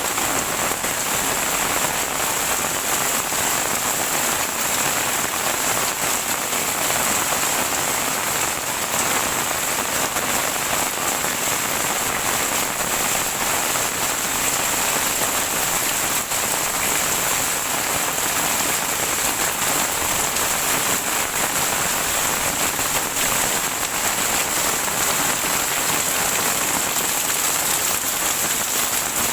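Heavy rain falling steadily and pattering on surfaces, an even, unbroken hiss of drops.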